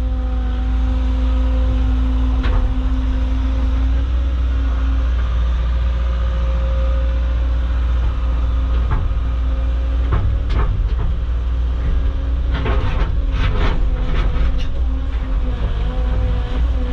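Caterpillar excavator's diesel engine running steadily under hydraulic load, with a steady whine whose pitch shifts a little as the machine works. Scattered knocks give way to a dense run of clatters about three-quarters of the way through, as rocks drop and tumble down the pile.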